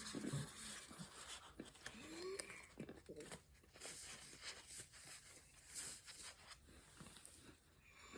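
Chewing and crunching pieces of packed cornstarch: a run of irregular, crisp crackles and crunches with a few short squeaky mouth sounds.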